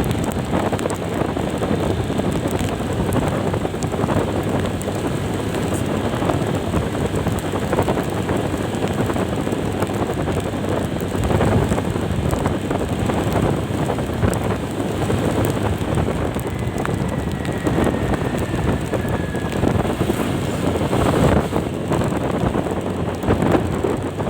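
Wind rushing over the microphone on a moving vehicle, with steady road and engine noise underneath.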